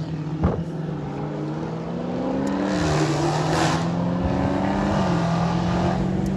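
Car engine pulling under acceleration, its pitch climbing and then dropping back at gear changes about three and five seconds in, with a rush of wind and road noise around the middle.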